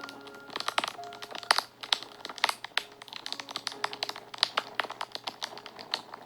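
Wood fire crackling and popping, with many sharp irregular snaps. Soft held notes of background music sound under the crackle.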